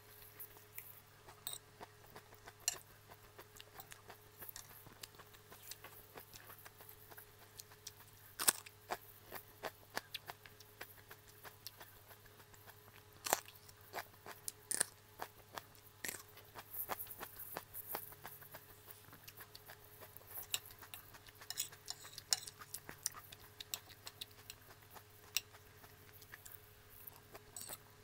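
Crunching and chewing of raw salad greens and a mini sweet pepper, in many irregular sharp crackles, with a metal fork clicking on a plate. A faint steady hum runs underneath.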